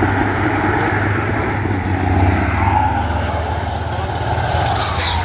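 Big-rig diesel truck engines racing down a drag strip under full power, a loud steady drone.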